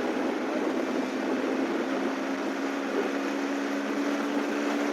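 Hero Splendor Plus motorcycle on the move, its small single-cylinder four-stroke engine giving a steady hum under even road and wind noise.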